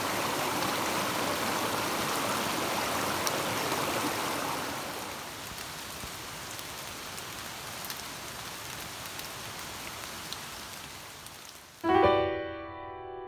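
Steady rain falling, louder for the first few seconds and then softer, fading out about twelve seconds in as piano music begins.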